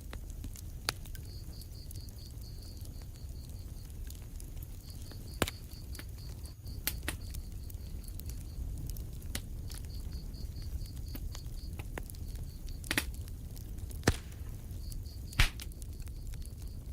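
Wood fire burning in a fireplace: a steady low rumble of flames with sharp crackles and pops every few seconds, the two loudest pops near the end. A faint high-pitched pulsing trill comes and goes in short runs behind it.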